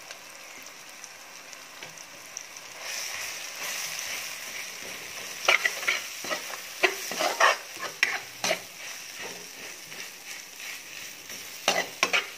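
Onion-tomato base with Kolhapuri onion-garlic masala sizzling in oil in a pan, being stirred with a spoon that knocks and scrapes against the pan. The sizzle grows louder about three seconds in, and the knocks come in quick clusters in the middle and near the end.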